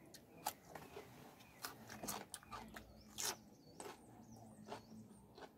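Close-miked eating sounds: soft chewing of crisp cucumber with irregular crunching clicks, and wet smacks of fingers being sucked clean.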